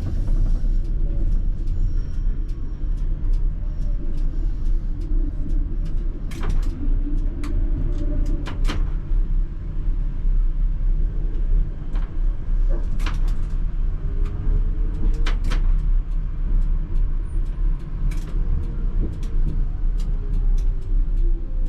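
ČKD Tatra T3R tram running along the track: a steady low rumble of wheels on rails, broken by scattered sharp clicks and knocks from the track. A motor whine rises in the middle and falls away near the end.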